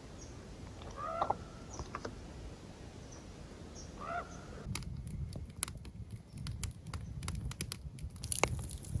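A crow-family bird cawing twice, harsh calls about three seconds apart, with faint high chirps from small birds. From about five seconds in, a run of sharp clicks and crackles over a low rumble.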